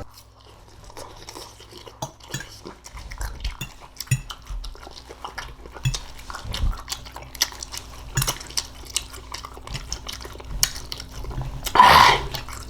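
Cutlery clinking and scraping against a dish of cooked green beans, in many small irregular clicks as the food is picked up.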